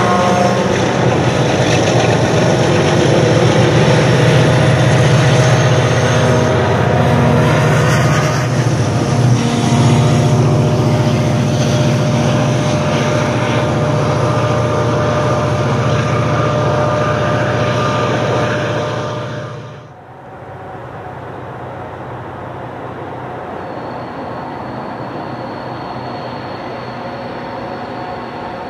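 Diesel locomotives hauling a loaded hopper train past at close range, engines labouring, then the wagons rolling and clattering by. About two-thirds of the way through, the sound cuts to a quieter, more distant diesel locomotive approaching.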